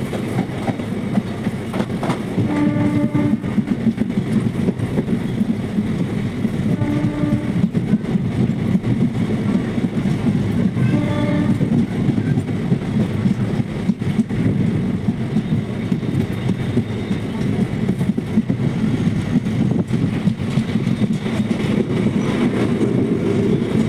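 Passenger train running with a steady rumble of wheels and coaches, cut by three short horn blasts about four seconds apart as it approaches a station.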